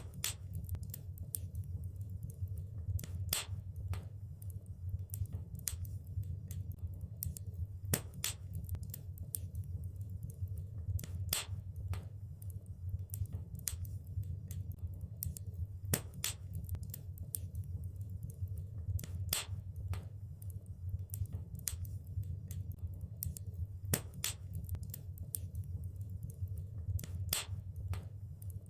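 Wood fire crackling in a fireplace: frequent sharp pops and snaps, a few louder ones every few seconds, over a steady low rumble.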